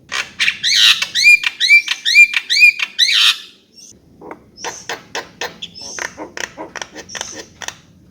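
Javan myna calling. It starts with a loud run of about six repeated upslurred whistled notes over the first three seconds. After a short gap comes a quicker, quieter string of short clicking chatter notes.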